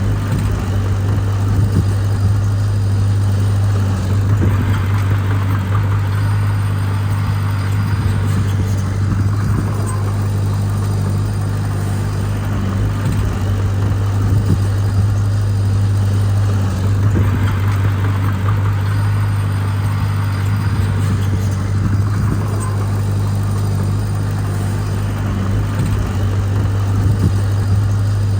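Heavy diesel engine of earthmoving machinery running steadily, with a strong low hum. Twice, for a few seconds each, its sound grows fuller, as when it works under load.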